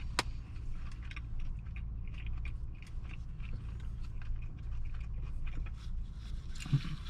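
A person chewing a mouthful of fried chicken sandwich close to the microphone: irregular small wet crunches and smacks, with one sharper click just after the start, over a steady low hum.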